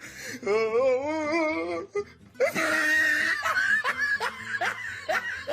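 Person laughing: a wavering pitched laugh, then a run of short rising laughing sounds in quick succession from about halfway through.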